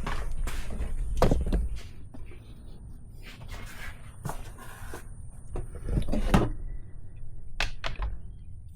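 Scattered knocks, clicks and rustling handling noises, with two louder clunks about a second in and around six seconds in.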